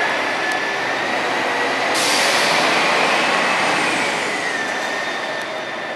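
Scania K420EB coach pulling away with a steady high whine that climbs in pitch and then falls back. A sudden burst of hiss starts about two seconds in.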